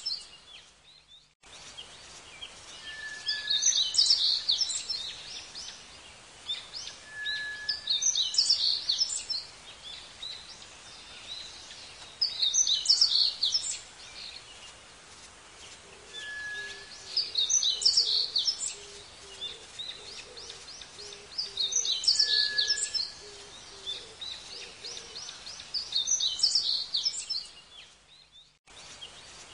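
A songbird singing the same short, busy phrase of high notes over and over, about every four to five seconds, several phrases led by a brief thin whistle, over a steady outdoor hiss. The sound drops out briefly just after the start and again near the end.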